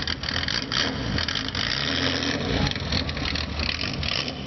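Classic Nissan Skyline with a loud aftermarket muffler idling, a steady uneven exhaust rumble.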